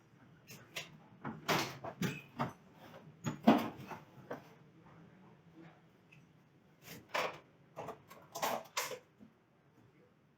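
Irregular knocks and clacks of hard objects being handled, in several short clusters with quiet gaps between.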